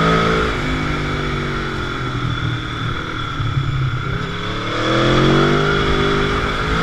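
Motorcycle engine under way, its revs falling off over the first couple of seconds, then climbing again about two-thirds of the way in as it accelerates.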